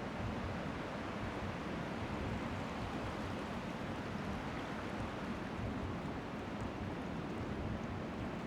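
Strong wind rushing steadily over the microphone, with small sea waves lapping faintly on the shore beneath it.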